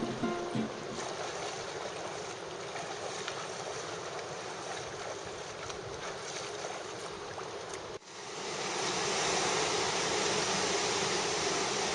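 Steady rush of surf and river water, with a sudden cut about eight seconds in to a louder, hissier rush. The tail of an acoustic guitar tune fades out at the very start.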